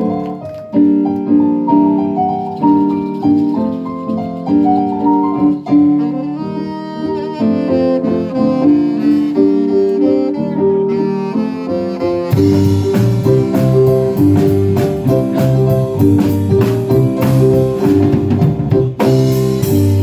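Live band music: piano or keyboard chords played alone at first, then about twelve seconds in, bass and drums with cymbals come in and the full band plays on.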